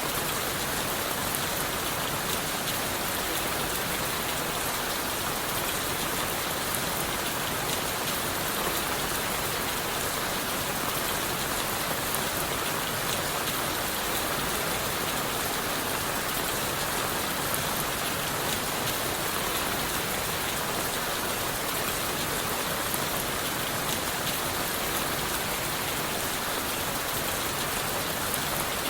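Steady rain falling on leaves, wood and the forest floor, an even hiss with many fine drop patters and no change in intensity.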